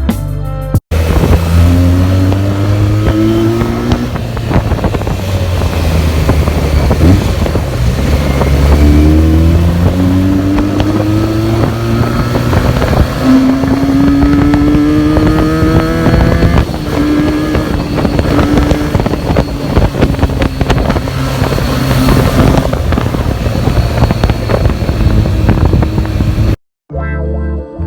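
Benelli TNT 300's stock-exhaust parallel-twin engine under way, revs climbing several times and dropping as it shifts up through the gears, then running at steadier revs. Wind rushes over the microphone.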